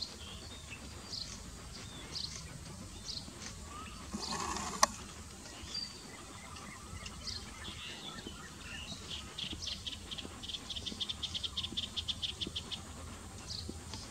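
Small birds chirping at intervals, with a quick, even run of chirps in the second half. About five seconds in there is a brief rustle and a single sharp click, the loudest sound here.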